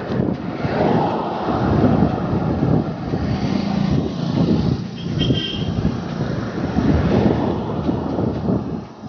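Wind buffeting the microphone on a moving bicycle, over road traffic noise. A brief high-pitched tone sounds about five seconds in.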